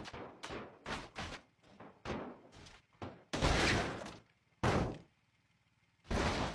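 A run of irregular knocks and thumps, about a dozen separate hits, with a longer rushing burst about three and a half seconds in.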